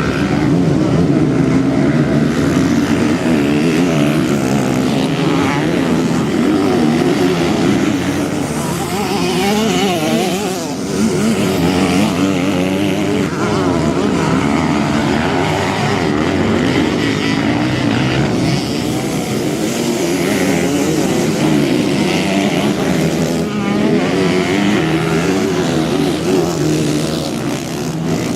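Motocross bike engine running hard, its revs rising and falling continuously as the bike is ridden, with a brief easing of the throttle about ten seconds in.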